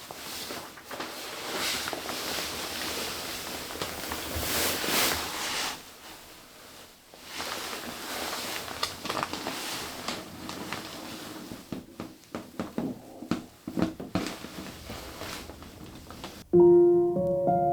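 A haze of noise that swells and fades, with scattered clicks late on. About a second before the end, gentle piano music starts.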